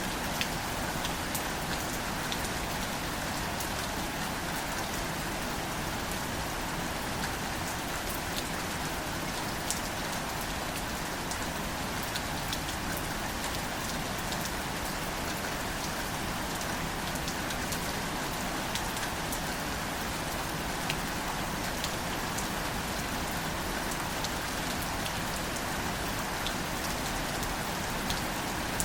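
Steady gentle rain falling on wildflowers and leaves: an even hiss with scattered sharp drop ticks.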